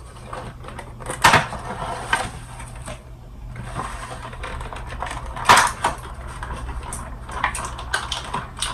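Cardboard box and plastic packaging being handled and opened to unbox a vinyl figure: irregular rustles, scrapes and clicks, with two louder snaps or knocks, one about a second in and one about halfway through.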